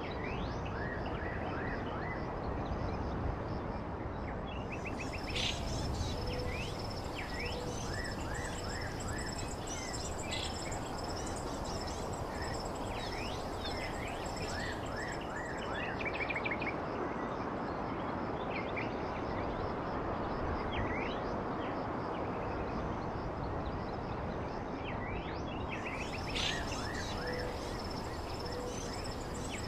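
Birds chirping in many short, quick, falling notes over a steady background rush of noise. A high-pitched, steady pulsing trill comes in about four seconds in, stops about halfway, and returns near the end.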